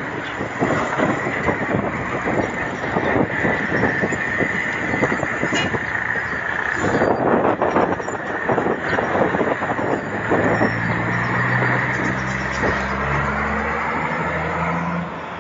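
Road and wind noise while riding a bicycle in traffic, with a motor vehicle's engine droning past from about ten seconds in.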